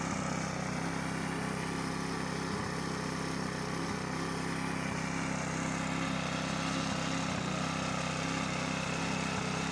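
Lawn mower's small petrol engine running steadily with its cutting blade removed, which makes it sound very weird.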